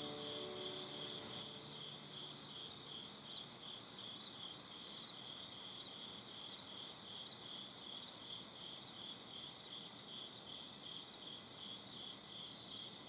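Crickets chirping steadily in even, high-pitched pulses, a few chirps a second. Piano notes die away in the first second or so.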